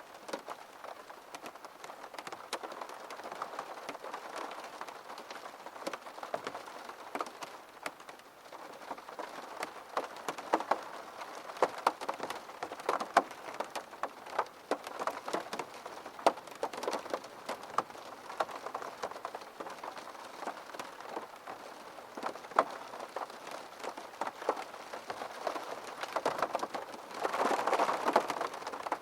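Rain on a window: raindrops tapping the glass as many sharp, irregular ticks over a steady patter. The rain swells louder briefly near the end.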